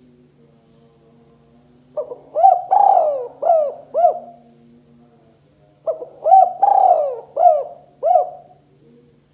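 Spotted dove (tekukur) cooing: two phrases of about five to six coos each, a couple of seconds apart, the notes rising and falling in a husky, rolling pattern. A faint steady low hum runs underneath.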